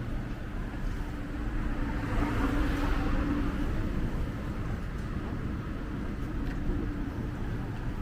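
Street traffic: a steady low rumble of vehicles, with one vehicle passing close and louder about two to three seconds in.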